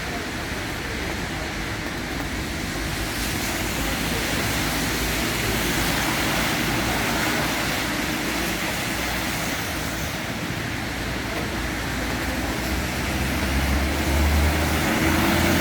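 Road traffic on a rain-wet street: a steady hiss of tyres and engines, with a low rumble swelling near the end.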